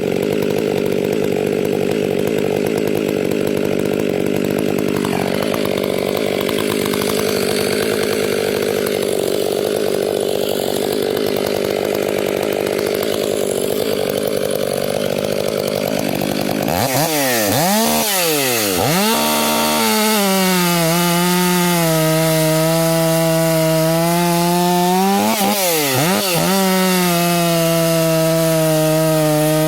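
Stihl MS 500i fuel-injected two-stroke chainsaw with a Bark Box muffler running at high revs. Its pitch holds steady for about the first sixteen seconds, then drops and recovers a couple of times in quick succession, runs steady again, and dips once more a few seconds later.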